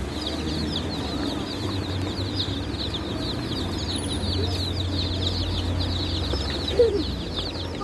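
Many small birds chirping at once: a dense, continuous stream of quick, high, falling chirps over a steady low hum. A single short, lower call stands out near the end.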